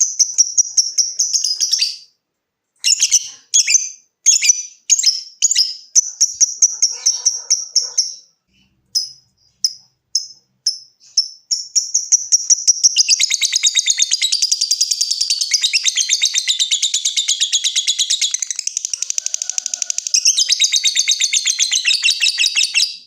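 Lovebird singing: fast, high ticking chirps in short runs broken by brief pauses (the 'ngetik'), then about halfway through a long unbroken rapid chattering trill (the 'ngekek') lasting about ten seconds.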